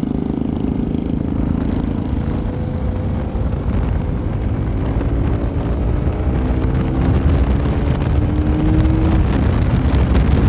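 Bajaj Pulsar NS200 motorcycle engine running under way, its pitch climbing gradually through the middle and dropping back shortly before the end, over a steady low rumble.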